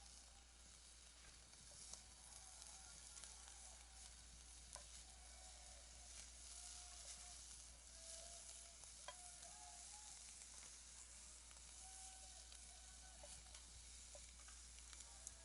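Faint steady sizzling with scattered small crackles from a handmade fire pit in use.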